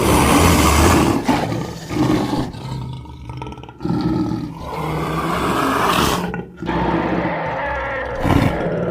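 Designed giant-jaguar creature roars, layered from big-cat recordings such as lion, tiger and leopard: several loud roars and growls one after another, with short breaks between them.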